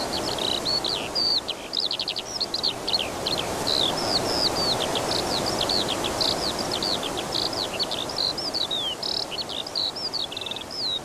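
A songbird singing an unbroken run of quick, high chirps, trills and down-slurred notes over steady background noise.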